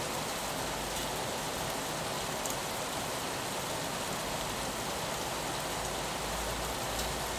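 Steady rain on window glass: an even hiss with scattered faint drop ticks. A low rumble swells in about six seconds in.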